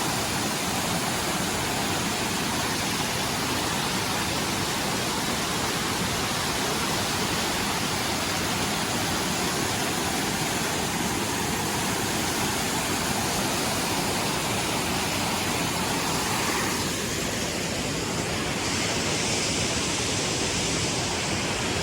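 Rushing water of a mountain waterfall, a steady even roar. Near the end it turns brighter and hissier.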